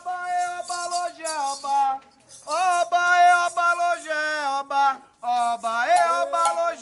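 A single voice singing a Yoruba Candomblé chant for Xangô without drums, in long held notes that step up and down in pitch, pausing briefly about two seconds in and again near five seconds.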